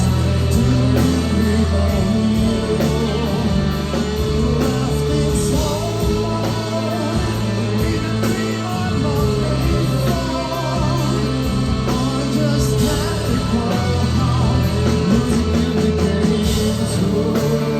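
Live rock band playing, with electric guitar, bass, drums and a sung melody line, as heard from the audience through a phone or camera microphone.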